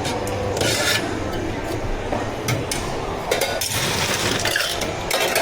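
Clinks, knocks and short scrapes of cups and utensils being handled while drinks are made, with several separate clicks and a few short rustling bursts.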